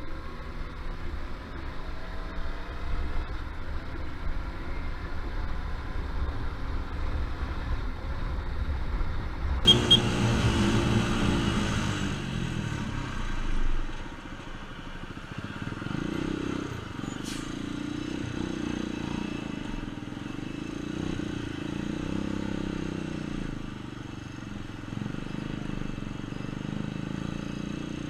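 Vehicle engines and road noise, the engine pitch rising and falling with speed. About ten seconds in the sound changes abruptly to a louder, fuller engine sound with rising revs.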